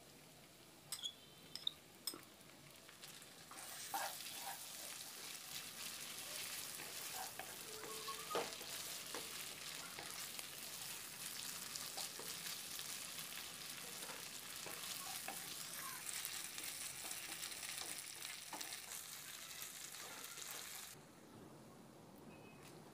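Food sizzling as it fries in a hot pan while it is stirred, with the scrape and knock of the utensil on the pan. A few sharp clicks come first; the sizzle starts about three seconds in and falls away about two seconds before the end.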